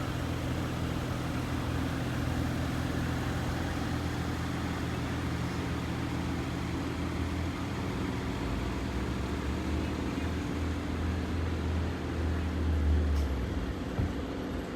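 Jet engines of a Boeing 767-300 freighter flying overhead: a steady low rumble that grows stronger toward the end.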